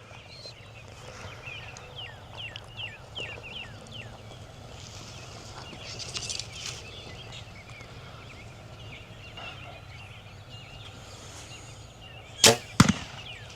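A compound bow shot near the end: a sharp crack of the string release, then, a fraction of a second later, the broadhead-tipped arrow striking the target. Before it, a small bird gives a quick run of short falling chirps.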